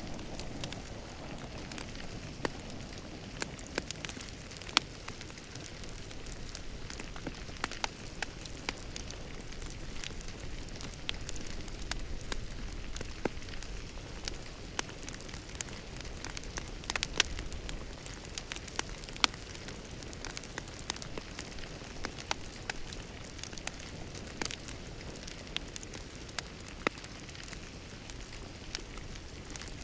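Wood fire burning steadily, with a soft hiss and rumble and frequent sharp, irregular crackles and pops.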